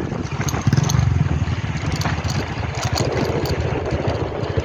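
A vehicle engine running steadily with a low, rapidly pulsing rumble while under way.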